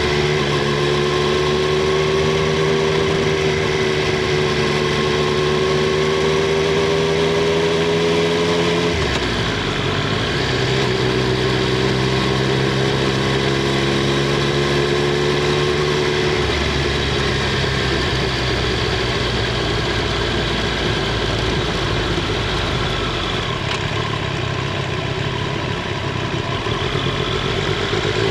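Triumph Street Triple 765 R's inline three-cylinder engine and exhaust running while ridden, the revs held fairly steady with small drifts. The engine note drops about nine seconds in, shifts again about sixteen seconds in, and starts to climb right at the end.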